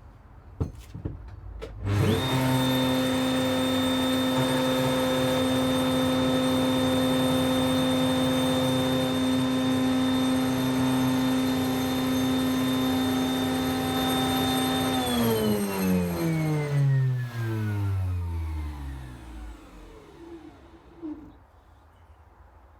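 Router mounted in a router table starting up about two seconds in and running at a steady speed while cutting a tapered truss-rod slot in a wooden mandolin neck blank. It is then switched off and spins down with a falling whine.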